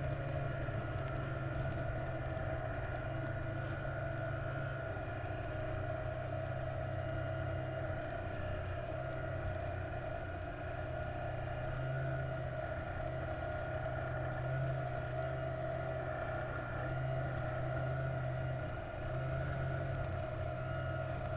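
A vehicle engine running steadily at an even speed, with a constant tone and low rumble that swells and eases slightly, and faint scattered clicks.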